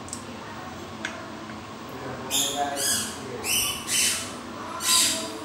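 A bird calling: a string of about five short, high squawking calls starting about two seconds in, after a light click and quiet room sound.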